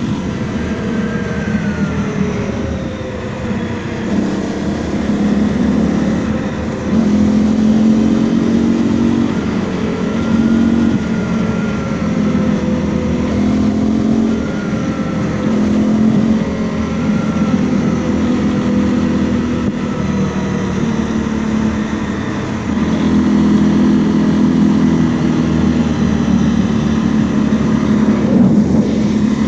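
Honda CRF250L's 250 cc single-cylinder engine running while riding, its pitch rising and falling repeatedly with throttle and gear changes.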